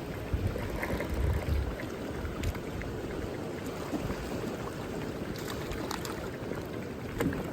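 Wind buffeting the microphone, with low rumbling gusts early on, over a steady rush of flowing water and a few faint clicks.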